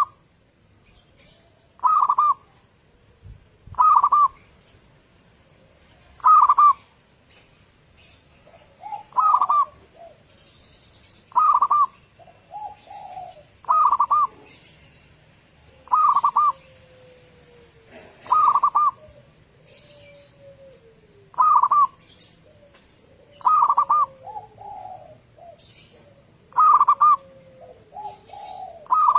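Zebra dove (perkutut) singing its cooing song over and over, a loud phrase about every two to two and a half seconds, with softer, lower, falling coos in between.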